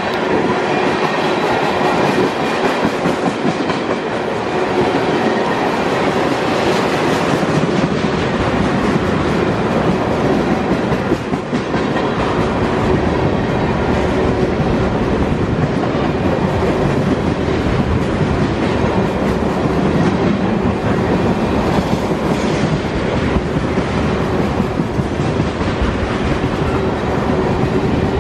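Freight train tank cars rolling past close by: steady loud noise of steel wheels on the rails, with clickety-clack over the rail joints.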